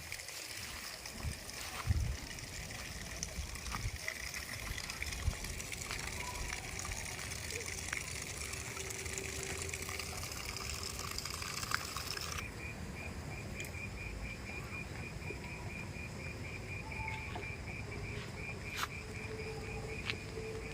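Outdoor ambience of trickling water over a low rumble. About twelve seconds in the sound changes abruptly, and an insect chirps evenly about four times a second.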